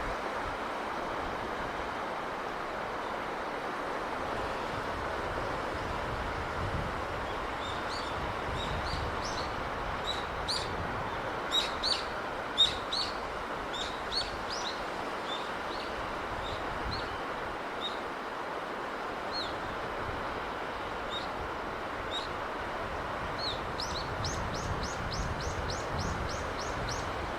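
Steady rushing of sea wind and surf, with a small bird chirping on and off from about eight seconds in and a quick run of repeated chirps near the end.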